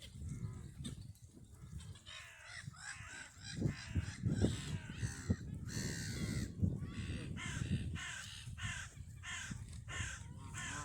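Birds giving harsh, repeated calls, about one or two a second, over a low background rumble.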